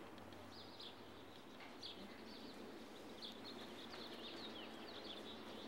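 Faint outdoor ambience: a steady low hiss with small birds chirping now and then, high and brief.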